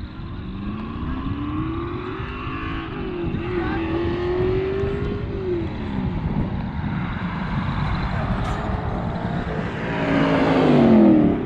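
A car engine accelerating, its note rising over about three seconds with a brief dip, holding, then falling away. Near the end a louder car passes close, its engine pitch dropping as it goes by.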